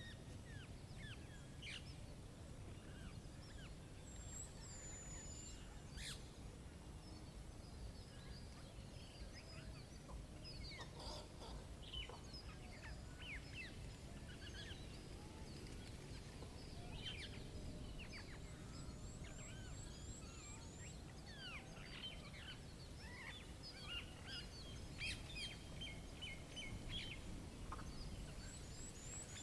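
Several small birds chirping and calling, with short falling notes scattered throughout and a few quick trills, over a steady low outdoor rumble.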